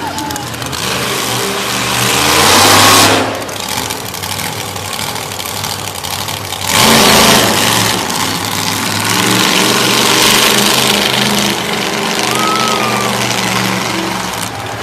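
Monster truck engine running, with two loud throttle bursts, about two seconds in and again about seven seconds in.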